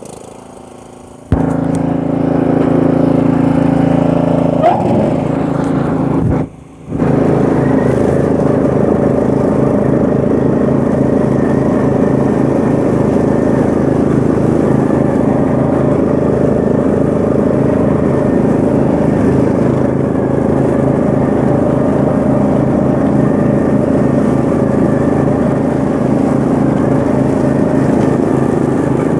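Murray 30-inch riding lawn mower's engine running steadily. It comes in abruptly about a second in, shifts up in pitch around five seconds in, and breaks off briefly just before it settles into a steady run.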